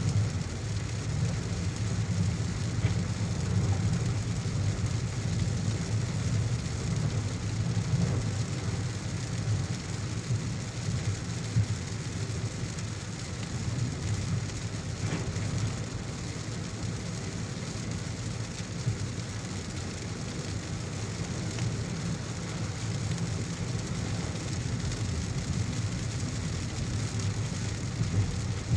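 Heavy rain falling steadily on a car as it drives, over a constant low rumble of the engine and tyres on a wet road.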